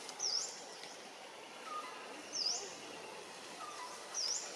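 A bird calling three times, about two seconds apart, each a short, high chirp that dips and then rises in pitch, over steady outdoor background noise.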